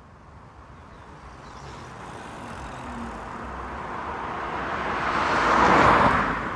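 Road vehicle approaching: steady tyre and road noise swelling gradually, loudest near the end, then easing slightly.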